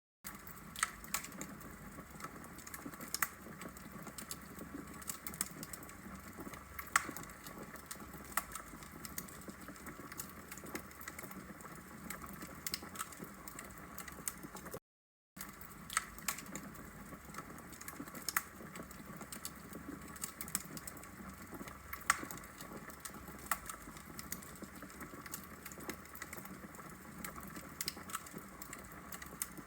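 Wood logs burning in a fireplace, crackling: irregular sharp pops and snaps over a soft steady hiss, with a brief cut to silence about halfway through.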